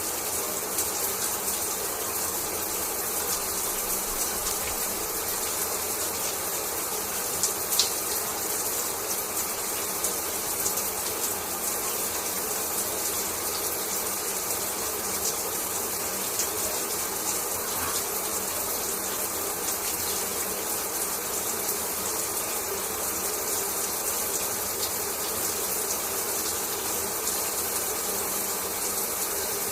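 Shower water spraying steadily and pattering down, a constant rush with a fine crackle of droplets and one sharper tick about a quarter of the way through.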